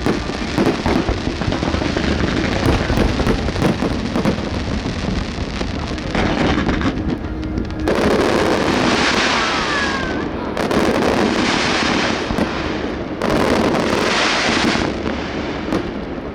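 Fireworks display going off: a continuous barrage of bangs and booms, with three long stretches of dense crackling in the second half.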